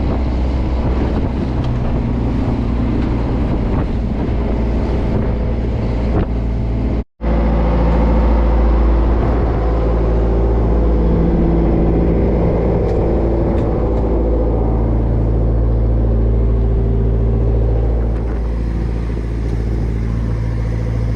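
Fishing trawler's diesel engine running steadily at a constant pitch, loud, with the sound cutting out for an instant about seven seconds in.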